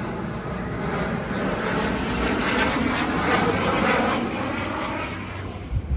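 A steady rushing noise that swells slightly in the middle and cuts off abruptly at the end.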